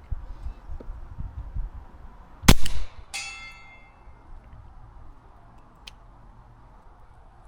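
A suppressed Taurus TX22 .22 LR pistol fires once about two and a half seconds in, and about half a second later a distant steel target plate rings from the bullet's hit, the ring fading over about a second.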